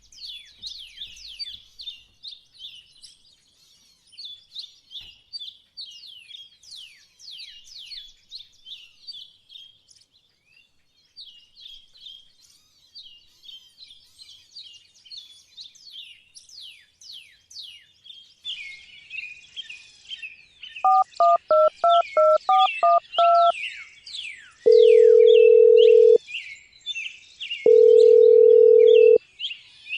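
Many small birds chirping continuously. About two-thirds of the way through, a phone dials a number with about ten quick two-tone keypad beeps. A ringback tone follows, a steady tone about a second and a half long that repeats after pauses of the same length, three times.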